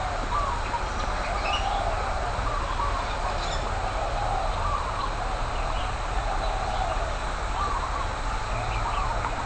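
Aviary ambience: many birds calling and chirping at once, overlapping, over a steady low rumble.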